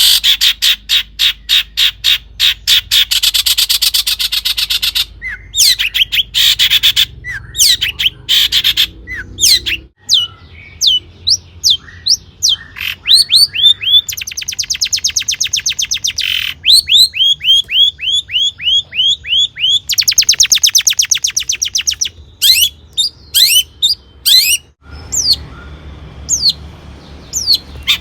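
Long-tailed shrike singing a loud, varied song: fast chattering trills alternate with runs of repeated sweeping whistles, broken by short pauses.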